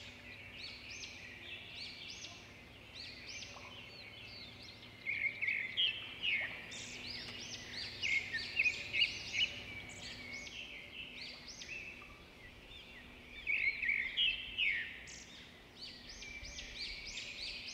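Small birds chirping, a steady chatter of short high chirps that swells into louder flurries several times.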